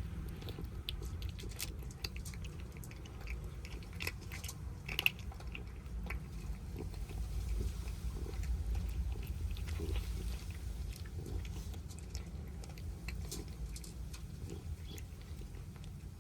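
Kittens eating, with irregular clicks of chewing and biting over a low steady rumble.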